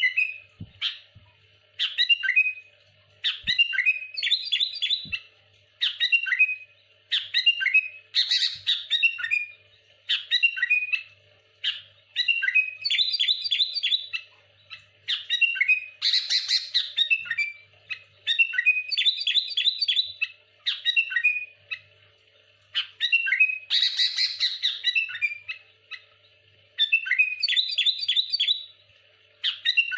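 Sooty-headed bulbul singing loudly: short phrases of sharp, chirpy notes repeated about once a second, broken three times by a longer harsh, rasping burst.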